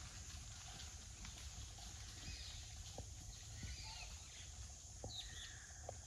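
Faint forest ambience: small birds give short chirping calls several times over a low steady rumble, with a few scattered light clicks.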